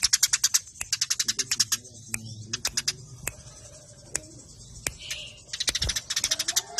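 Eurasian tree sparrows giving rapid trains of sharp chirps, more than ten a second, in bursts broken by short pauses, with a dense run starting near the end. A low thump about six seconds in.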